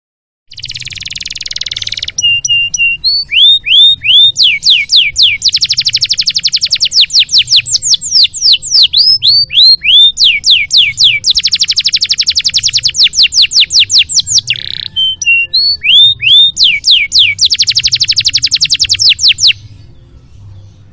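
Domestic canary singing a long, varied song: a short buzzy rattle, then phrases of repeated down-slurred whistles alternating with fast rolling trills, ending shortly before the close.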